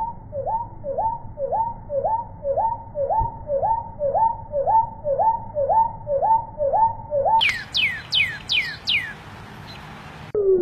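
Bird calls: a long run of identical short notes, each sliding down and hooking back up, repeating about two and a half times a second. About three-quarters through it switches abruptly to a different bird giving about six high falling whistles over a steady hiss.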